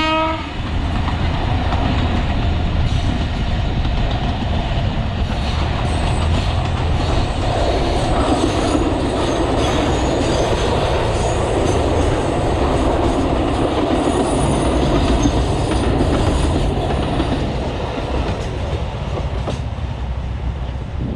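Alishan Forest Railway narrow-gauge train led by diesel locomotive DL47 running by: engine rumble and wheels clattering on the rails, with faint high wheel squeal in the middle stretch, easing off near the end. The tail of a horn blast cuts off just as it begins.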